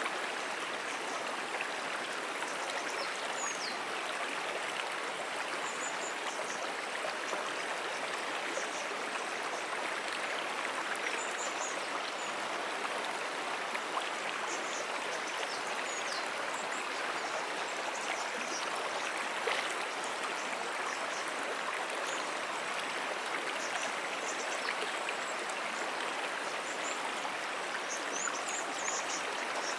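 Moonan Brook, a freshwater stream, flowing steadily with an even, unbroken rush of water. Faint, short, high-pitched chirps come and go throughout.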